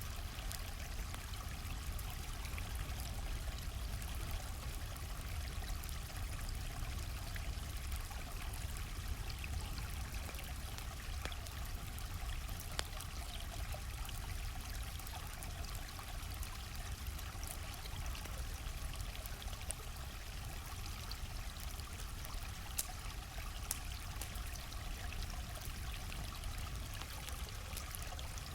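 Steady rush of a flowing stream, with scattered sharp crackles and pops of a wood campfire over it.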